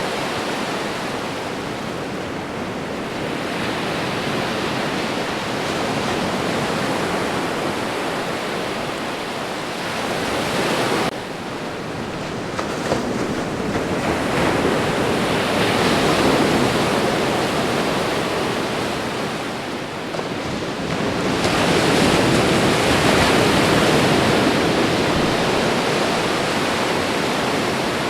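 Ocean surf: a continuous wash of breaking waves that slowly swells and ebbs, loudest around the middle and again in the last third, with an abrupt drop in level about eleven seconds in.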